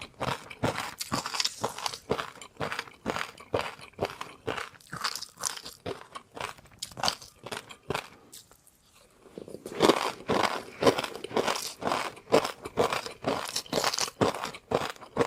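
A person chewing crunchy food, with rapid, crisp crunches. The chewing pauses for about a second and a half just past the middle, then resumes.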